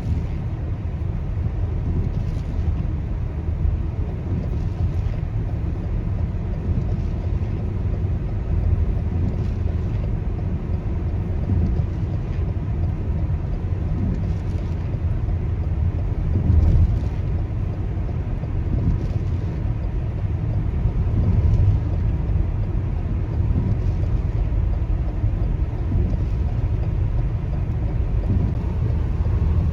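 Steady low road and engine rumble heard from inside a car driving in heavy rain, with windshield wipers sweeping about every two and a half seconds.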